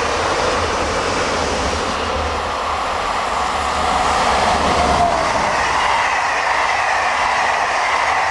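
Two electric passenger trains passing each other: the steady rumble and wheel noise of a double-deck commuter train moving away, then an electric locomotive with its passenger coaches coming by on the near track, growing louder from about four seconds in with a whining tone that shifts in pitch.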